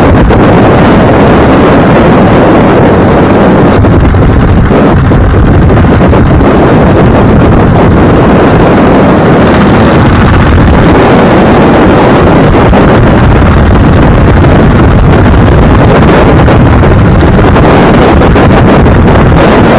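Wind rushing hard over the microphone of a moving vehicle, with road noise underneath, loud and steady.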